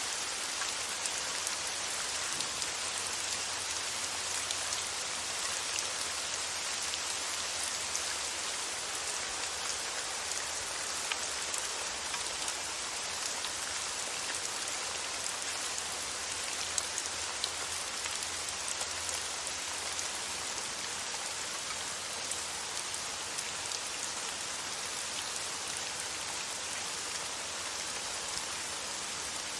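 Steady rain falling on a surface, an even patter of many fine drops with an occasional louder drop, played as a relaxing rain soundtrack.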